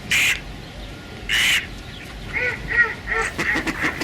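Ducks quacking: two loud, harsh quacks in the first second and a half, then a run of quicker, overlapping quacks from several ducks that grows denser toward the end.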